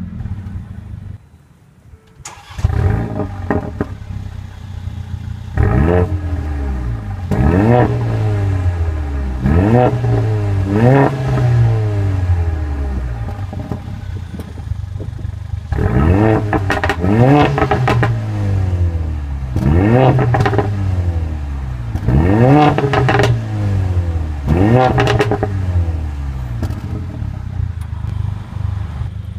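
The 2014 Mercedes-Benz CLA45 AMG's turbocharged 2-litre inline-four is idling and being revved in about ten quick throttle blips. Each blip is a sharp rise in pitch that falls back to idle. The sound drops out briefly just after the start, then comes back loud.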